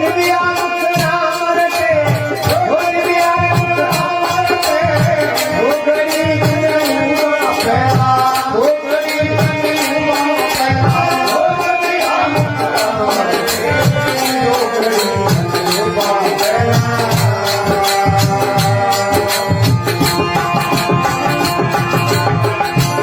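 Instrumental interlude of a folk devotional bhajan: a melody that slides up and down in pitch over a steady hand-drum beat and rattling percussion.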